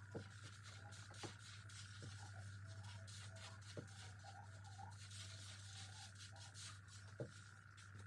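Near silence: a faint steady hum with faint, repeated short chirps and a few soft clicks.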